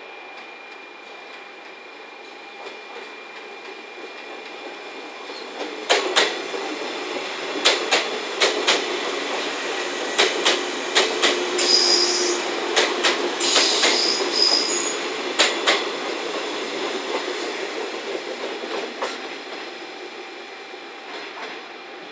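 Four-car 115 series electric train pulling out and passing close by, its wheels clacking over rail joints and points in a long run of sharp knocks, with a brief high wheel squeal in the middle. The sound builds, peaks and fades as the train moves off.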